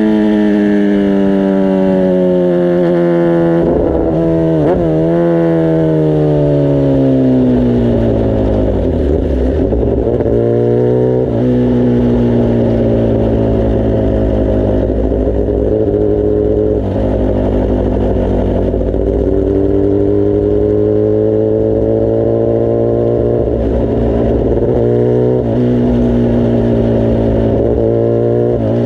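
Kawasaki ZX-10R inline-four engine and exhaust under way. The engine note falls steadily over the first ten seconds, broken by a few quick up-and-down swings in pitch. It then holds steady and slowly climbs, with a few short dips near the end.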